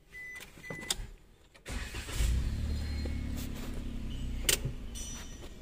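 Maruti Suzuki WagonR's warning chime beeps a few times, then the petrol engine is cranked and catches about two seconds in. It settles into a steady idle.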